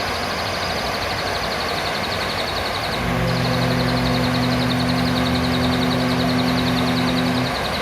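Serindit (hanging parrot) giving a high, rapid trill, in two long runs with a short break about three seconds in, over steady background noise. A low steady hum joins from about three seconds in and stops shortly before the end.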